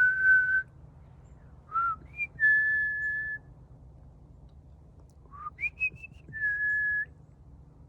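A person whistling to call wild animals: three phrases, each a few quick rising chirps followed by a long held note, the middle one held for about a second.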